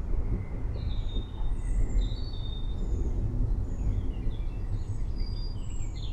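Forest birds chirping and whistling in short, scattered calls over a steady low rumble, which is the loudest thing heard.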